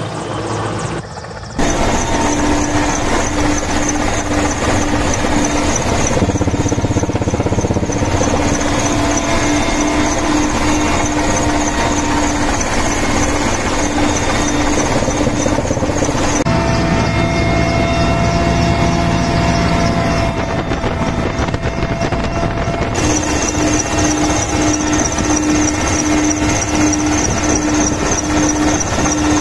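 Helicopter running steadily, with a high-pitched turbine whine over a low pulsing drone; the sound changes abruptly a few times.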